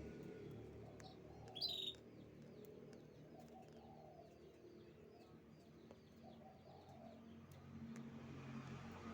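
Canary singing: a brief loud burst of high chirps just before two seconds in, then a faint trill of short repeated notes, about five a second, for several seconds.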